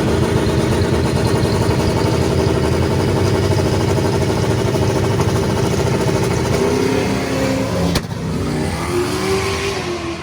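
Drag racing car engine at full throttle down the strip. About eight seconds in there is a single sharp bang, and the engine note then drops and glides down as the throttle comes off.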